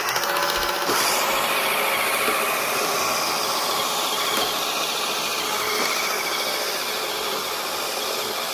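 First-generation iRobot Roomba robot vacuum running: the steady whir and hiss of its brush and vacuum motors as it cleans.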